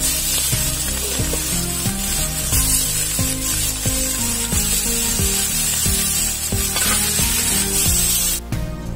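Hot oil sizzling in a large wok as sliced tomatoes and green chilies fry. Background music with plucked notes plays under it. The sizzle cuts off suddenly near the end.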